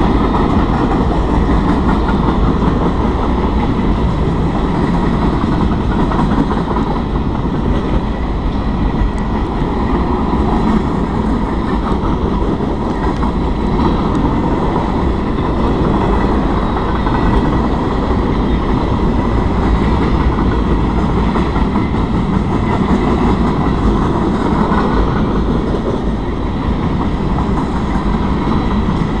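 Canadian National freight train rolling through a grade crossing, a steady loud rumble and rattle of its cars' wheels over the rails.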